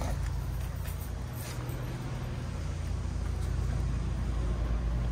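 A motor vehicle's engine running steadily, a low rumble that grows slightly louder in the second half.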